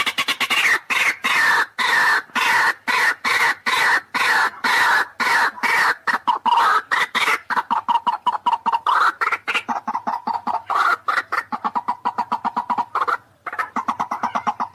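White-breasted waterhen (ruak-ruak) calling: a rapid, unbroken run of harsh, clucking notes, several a second, with a short break about thirteen seconds in.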